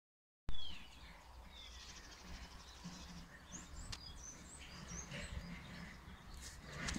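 Birds chirping outdoors, short sweeping calls scattered over a low steady background rumble, with a short thump about half a second in as the sound begins.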